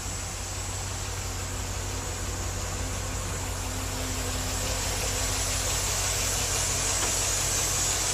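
2002 GMC C6500 dump truck's 8.1-litre gasoline V8 idling, a steady low hum that grows gradually louder.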